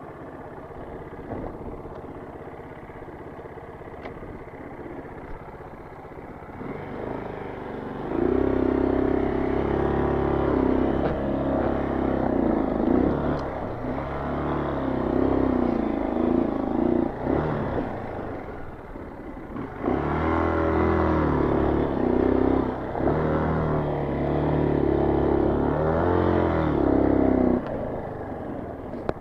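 Single-cylinder four-stroke engine of a Honda CRF230 dirt bike running steadily, then from about eight seconds in revving hard under load, its pitch rising and falling. There is a short let-up a little before halfway, then it pulls hard again until near the end. This fits the bike climbing a steep hill wide open in second gear and running out of power, with the rider working the clutch.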